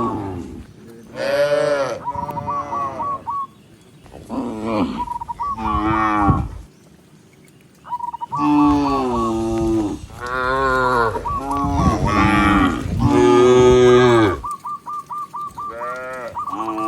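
Cattle mooing repeatedly: a string of long, loud calls that bend in pitch, some overlapping, with short lulls between them. A quick, high repeated chirp sounds in the pauses.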